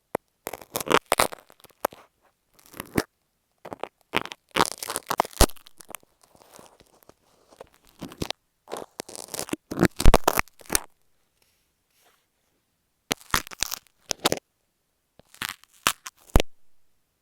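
Masking tape and marking pins rubbed, scratched and tapped right against an earphone microphone: close, dry crackling and tearing scrapes in short clusters, with a pause of about two seconds after the middle.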